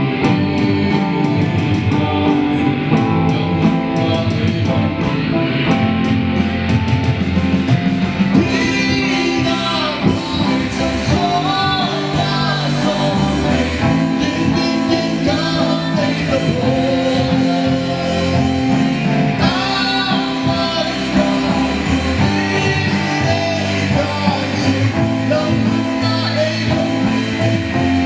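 A song performed live with guitar accompaniment; a singing voice comes in about eight seconds in over the guitar chords.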